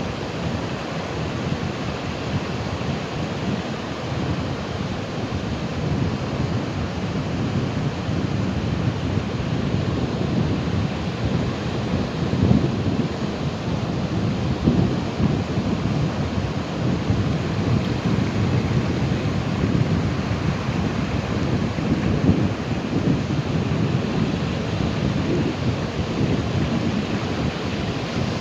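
Ocean waves breaking continuously: a steady rushing surf with a deep rumble, swelling a little louder a few times in the middle.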